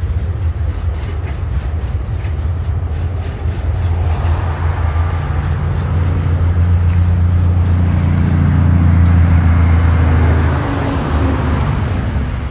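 Freight train passing on a rail bridge. At first the wagon wheels click evenly over the rail joints, about three to four times a second. Under them a heavy, low engine drone builds to its loudest about eight to ten seconds in, then drops off.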